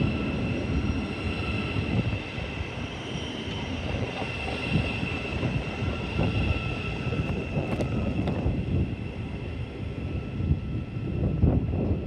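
Passenger train pulling out of the station, with a steady rumble and a held whine that fades away after about eight seconds.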